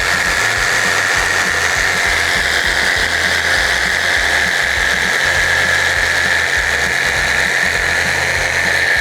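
Handheld power tool running steadily with a constant high whine, cutting into seat cushion foam.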